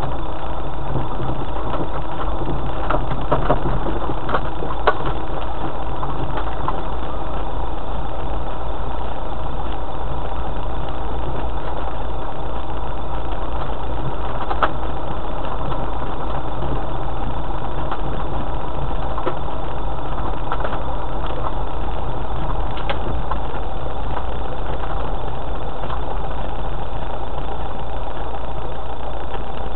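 Four-wheel-drive vehicle's engine running steadily at low speed on a rough, stony green lane, with a few short knocks along the way.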